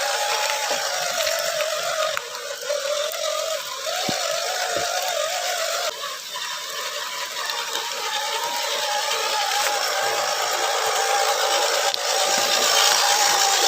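Electric motor and gear drivetrain of a 1/10-scale SCX10 RC crawler whining as it drives, the pitch wavering up and down with the throttle, changing abruptly a few times.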